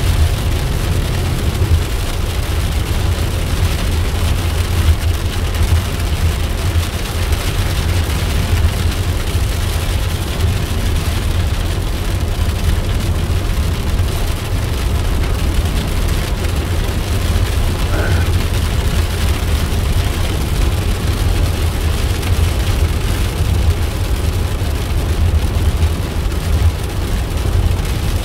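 Car driving at a steady pace, heard from inside the cabin: a continuous low rumble of road and engine noise that does not change.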